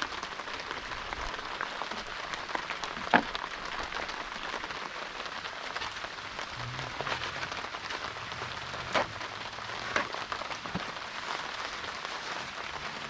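Pouring rain, a steady hiss, with a few sharp taps about three, nine and ten seconds in.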